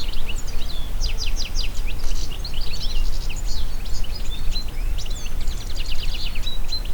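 Several songbirds chirping and trilling at once, with rapid repeated notes and short rising and falling calls, over a steady low rumble of wind.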